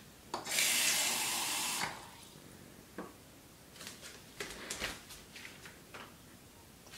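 Water pouring for about a second and a half, unmeasured, followed by a few light knocks and clicks.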